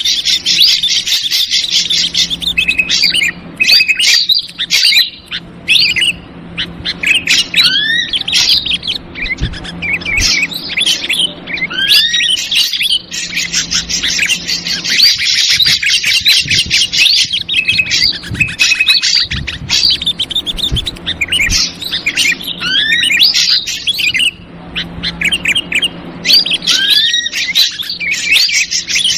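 Ashy drongo and yellow-vented bulbul calls played as a bird-lure recording. Stretches of fast, harsh chattering alternate with clear whistled notes that slide up and down, over a faint low hum.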